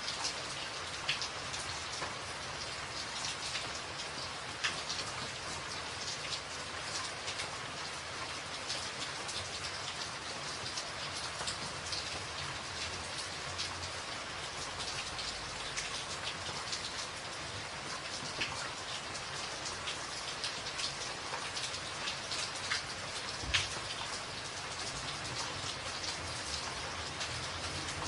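Steady rain falling on a tin roof, with many individual drops ticking sharply on the metal and a few louder drop hits among them.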